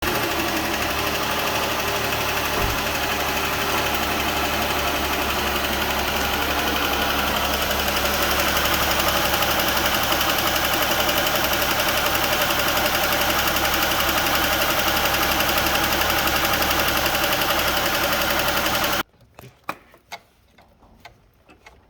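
2014 Jeep Grand Cherokee engine running, with the valvetrain noise of a bad lifter roller and camshaft. It grows a little louder about eight seconds in, then cuts off abruptly near the end, leaving a few faint clicks.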